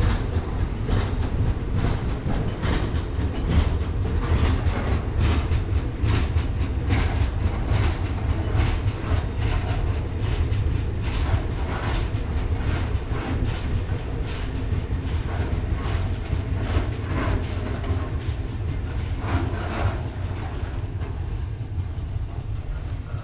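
Freight train rolling past: a steady heavy rumble with repeated wheel clicks over the rail joints, easing off near the end.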